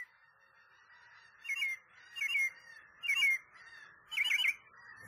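A bird calling repeatedly: four calls about a second apart, each two or three quick down-slurred notes, over a faint steady background hiss.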